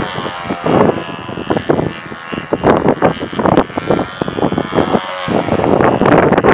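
Control-line model aeroplane's engine running steadily, its whine wavering slightly in pitch as the plane circles, under heavy wind buffeting the microphone in irregular gusts.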